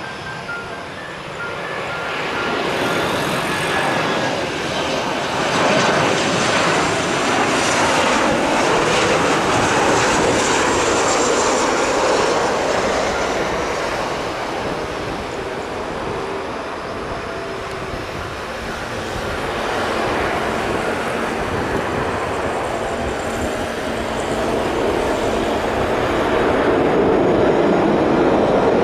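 Jet aircraft engines running loud, the roar swelling, easing off and swelling again, with a faint high whine falling in pitch.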